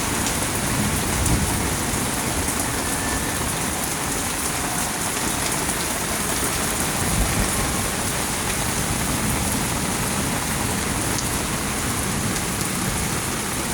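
Steady, soaking rain falling: a continuous, even hiss of rain.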